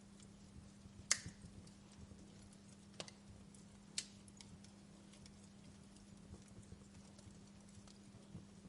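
Wood fire crackling softly, with a sharp pop about a second in and two smaller pops near three and four seconds, over a faint steady low hum.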